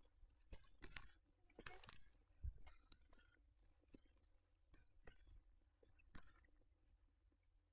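Faint footsteps on a forest trail: scattered soft crunches and clicks about once a second, with a faint high hiss behind them.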